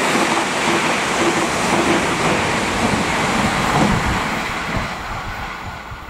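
Irish Rail 22000 class diesel multiple unit passing close at speed: a loud rush of wheel, rail and engine noise with low rumbling. It fades steadily over the last two seconds as the train draws away.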